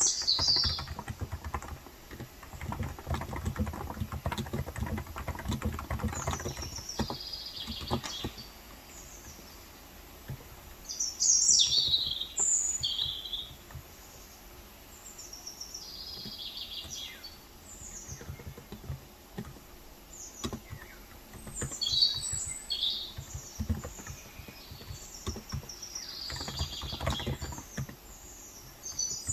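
Birds chirping repeatedly throughout, over bursts of typing on a Cox Endeavor electrostatic-capacitive (contactless, 35 g) tenkeyless keyboard. The typing comes in two runs, one in the first few seconds and another in the second half. The loudest chirps fall a little before the middle.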